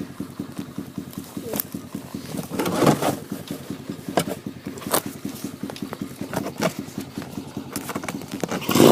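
Dirt bike engine idling steadily with a fast, even beat, with a few sharp clicks over it.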